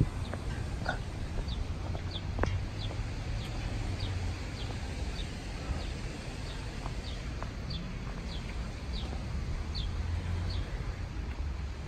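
A songbird repeating a short, high chirp that drops in pitch, about one and a half times a second, stopping near the end. A steady low rumble runs underneath.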